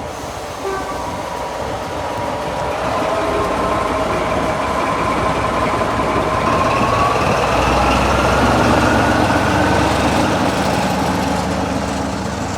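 Class 14 diesel-hydraulic locomotive running with its train, its engine and a whine building and the whine rising in pitch. It is loudest about two thirds through, then eases off, as when the train pulls away from the platform.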